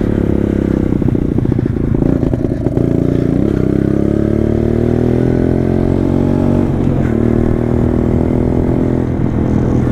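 Small single-cylinder pit bike engine running under a riding load, its pitch climbing steadily for a few seconds from about three and a half seconds in as the bike accelerates, with some clattering about two seconds in.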